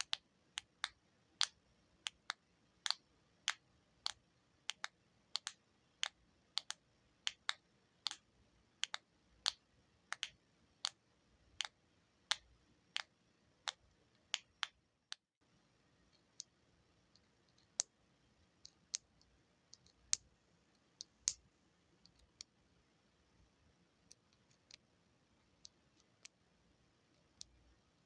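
Sharp clicks of buttons being pressed, about two a second at first. After a brief break about halfway, the clicks come sparser and irregular.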